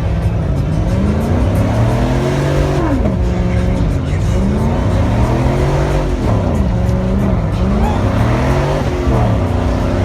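Truck engines revving up and down again and again, the pitch rising and falling every second or two over a steady low engine drone.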